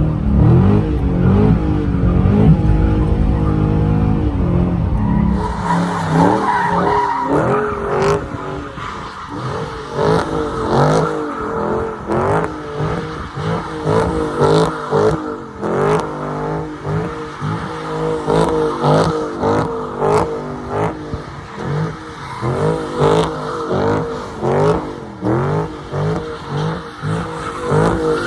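Dodge Scat Pack's 392 HEMI V8 revving hard with the tyres squealing as the car slides with traction control off. From about five seconds in, the revs surge up and down again and again.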